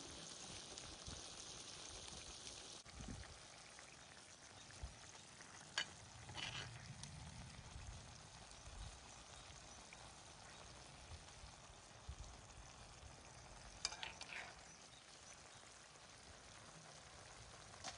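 Food frying in a skillet: a faint, steady sizzle, with a sharp click about six seconds in and another near fourteen seconds.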